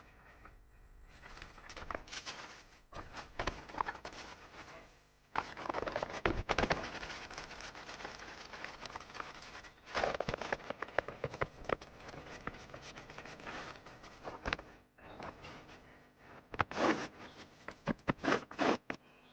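Irregular rustling, crackling and scraping with many sharp clicks, louder in bursts about six seconds in, ten seconds in and near the end, typical of leaves and sticks being handled and moved.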